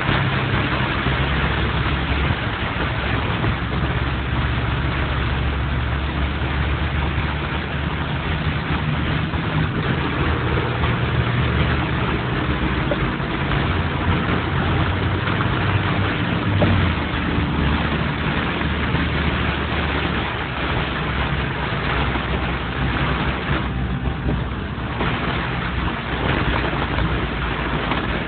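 Vehicle engine running with a steady low hum under an even hiss of rain and tyres on a wet road.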